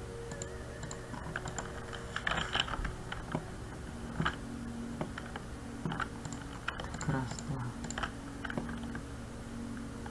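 Computer keyboard keys and clicks tapped at an irregular pace, over a steady low electrical hum.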